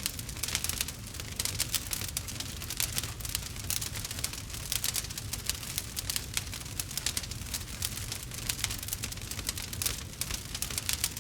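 Campfire crackling: dense, irregular pops and snaps over a low, steady rumble.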